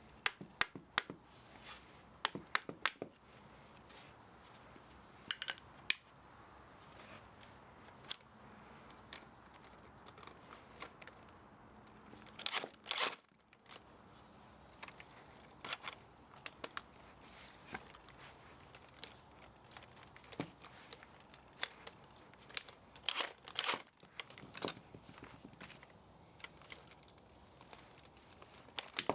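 Hand work stripping an electric pump motor for scrap metal: irregular clicks and clinks with short tearing, scraping sounds, a longer scrape about halfway through and a cluster of them near the end.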